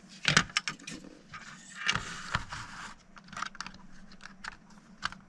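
Small hard objects being handled: a quick cluster of sharp clicks about a third of a second in, a scraping rustle around two seconds, then scattered light ticks and taps.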